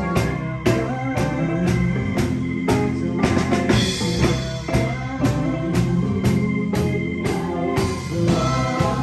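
Live band playing an instrumental passage: a drum kit keeping a steady beat under held chords.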